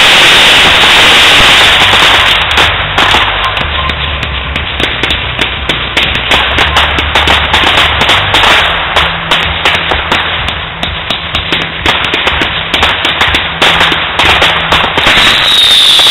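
Fireworks display: a dense, loud crackle for about the first two seconds, then a long run of rapid, sharp pops and bangs from crackling fireworks. A falling whistle begins near the end.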